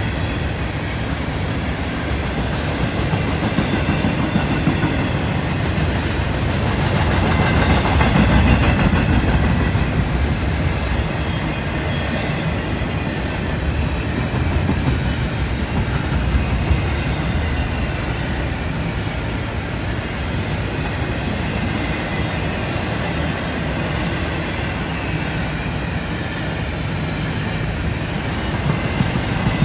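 CSX intermodal freight train rolling past on the rails: a steady rumble with wheel clatter, swelling a little about eight seconds in, and a few brief high-pitched wheel sounds around the middle.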